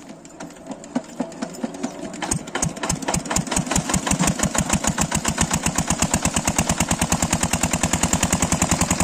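Engine chugging with a steady knocking beat, like a single-cylinder tractor engine: the knocks start sparse about a second in, speed up over the next few seconds, then run at an even rapid pace.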